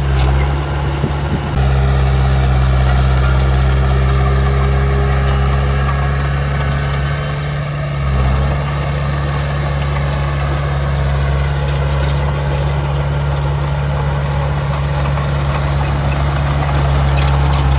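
Heavy diesel engine of earthmoving machinery running steadily, a deep low drone with small shifts in pitch about a second and a half in and again around eight seconds in.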